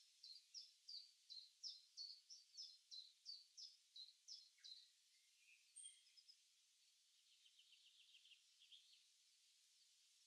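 Faint birdsong: a bird repeats a short high chirp about three times a second for nearly five seconds, then a fainter rapid trill follows later, over a low outdoor hiss.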